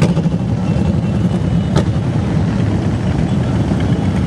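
Many motorcycle engines rumbling together in a steady, loud drone. Two sharp clicks come through, one at the start and one about two seconds in.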